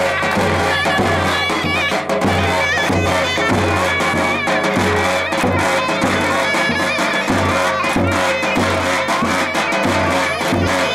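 Turkish folk music on davul and zurna: a shrill double-reed pipe plays a wavering melody over a steady beat on a large bass drum.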